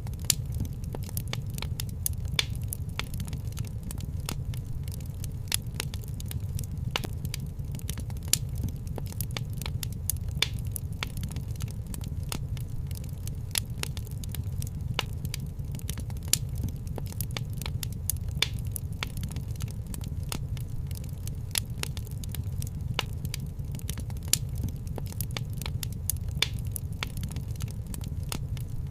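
Fireplace wood fire crackling, with many sharp irregular pops and snaps over a steady low rumble.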